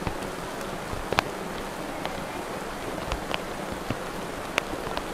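Steady rain falling, with a few sharper drops ticking now and then.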